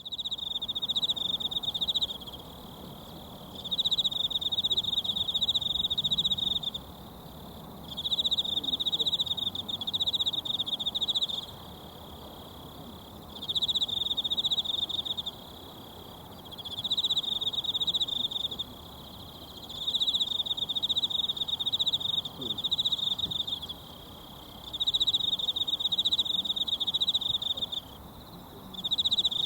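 Mountain stream babbling steadily. Over it, a high, fast-pulsing trill from a calling animal, most likely an insect, repeats in bouts of two to four seconds with short pauses between them, about eight bouts in all. The trill is the loudest sound.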